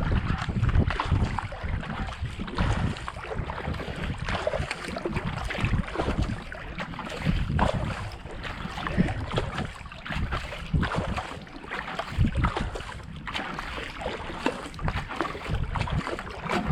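Wind buffeting a GoPro microphone, with the splash and drip of kayak paddle strokes in canal water.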